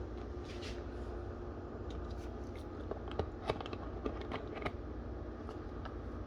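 Light, irregular clicks and taps of food being handled and dressed by hand, over a steady low hum.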